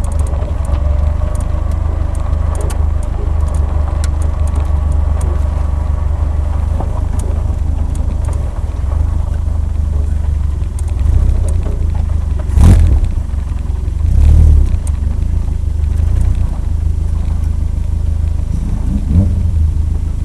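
Engine of an open Seven-style kit car running at low speed, heard from on board as a steady low rumble, with two brief louder surges about twelve and fourteen seconds in.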